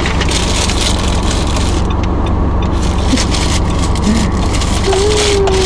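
Steady road and engine noise inside a moving car's cabin, a constant low rumble with tyre hiss.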